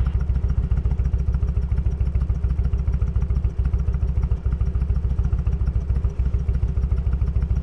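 Motorcycle engine idling with a steady, even pulsing beat and no revving.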